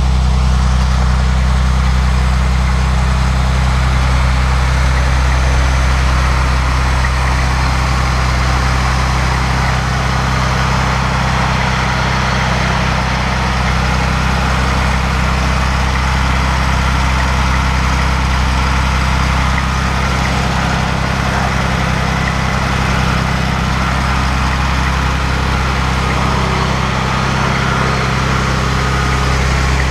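A Dodge's newly installed engine idling steadily during its first run.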